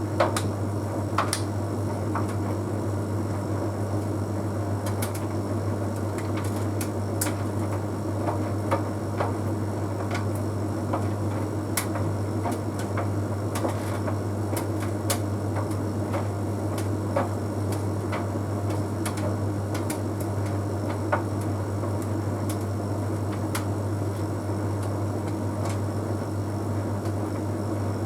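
Bosch Series 6 heat pump tumble dryer running mid-cycle: a steady low hum from its compressor and drum motor, with irregular light clicks and taps from the clothes tumbling in the drum.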